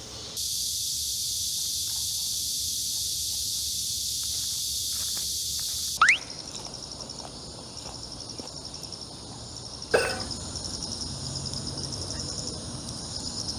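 Cicadas singing: a steady high buzz that cuts off abruptly about six seconds in, giving way to a quieter, rapidly pulsing insect trill. A short sharp knock comes about ten seconds in.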